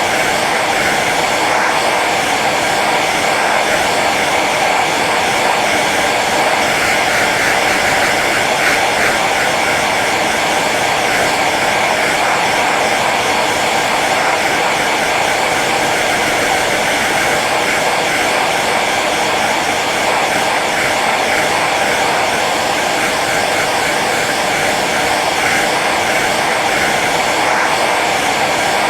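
Hair dryer running steadily on its low setting: a continuous airy whoosh of the fan with a faint motor hum, no changes.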